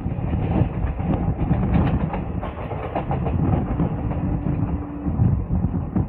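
Passenger coach running at speed, heard from alongside the coach: a dense steady rumble of wheels on rail with irregular sharp clicks as the wheels pass over joints and points.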